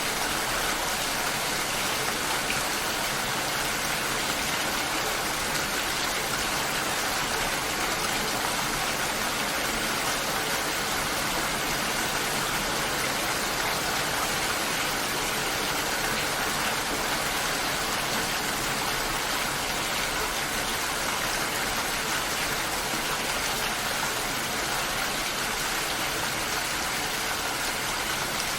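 Steady, even rain falling, with no breaks or distinct drops standing out.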